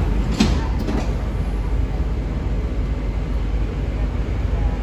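MTR Kwun Tong Line C-train running, heard from the train: a steady low rumble with two short clicks about half a second and a second in.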